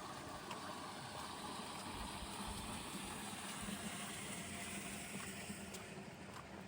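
A vehicle passing on a wet road: a hiss of tyres on water with a low engine hum that swells and then eases away near the end.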